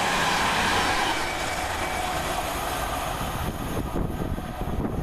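East Midlands Railway Class 222 Meridian diesel multiple unit passing through the station: a loud, steady rush of diesel engine and wheel-on-rail noise that fades away over the last couple of seconds, with a few clicks from the wheels near the end.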